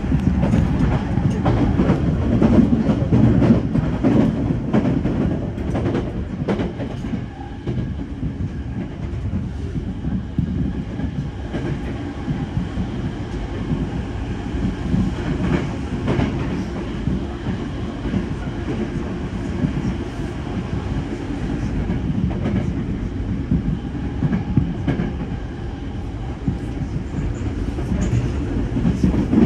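Commuter train running at speed, heard from inside the passenger car: a steady rumble of wheels on rail with intermittent clicks from the rail joints.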